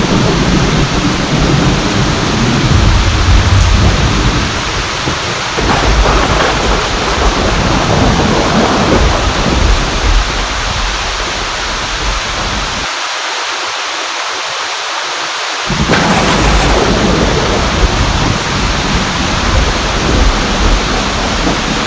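Steady heavy rain with rolling thunder rumbling underneath. The low rumble drops out abruptly for a few seconds just past the middle, then returns.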